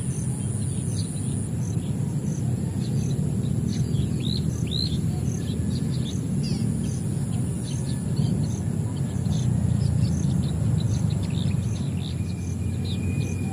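Many small birds chirping in short, scattered calls and quick sweeps. Under them runs a steady high buzz with an even ticking about three times a second, over a louder steady low rumble.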